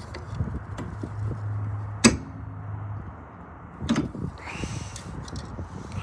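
A sharp metallic clank with brief ringing about two seconds in, and another knock near four seconds, from tools and parts being handled during car brake work, over a low steady hum.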